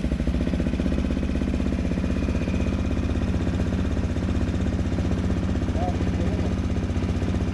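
AJP PR7's single-cylinder four-stroke engine idling steadily, just after starting on a battery charged for about 15 minutes.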